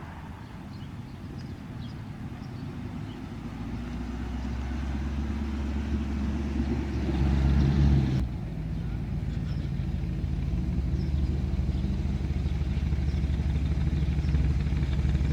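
A motor vehicle engine running at low speed, a low drone that grows louder over the first several seconds. It shifts abruptly about eight seconds in, then runs steady.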